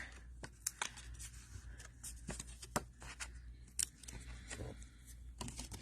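Faint scattered clicks, taps and light scrapes of cardstock and adhesive tape being handled and pressed down, over a steady low hum.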